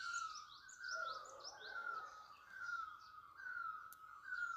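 Birds chirping: one bird repeats a short falling whistle about every three-quarters of a second, while others give quick, high, rising chirps that are busiest in the first half.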